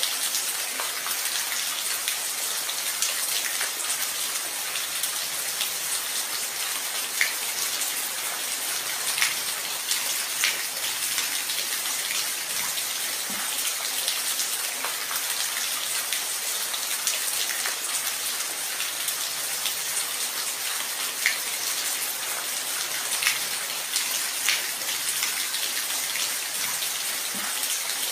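Steady rain falling, an even hiss with occasional louder individual drops.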